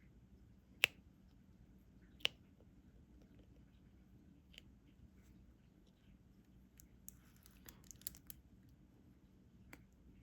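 Diamond painting pen tapping small resin drills onto the sticky canvas: sparse sharp little clicks, the two loudest about one and two seconds in, and a quick patter of small clicks and ticks around seven to eight seconds in.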